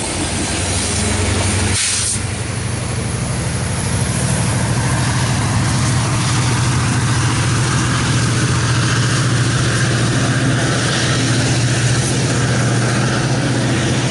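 Diesel locomotive engine running steadily, from a Metra MP36PH-3C with its EMD 16-cylinder two-stroke prime mover. There is a short burst of air hiss about two seconds in, typical of a brake air release.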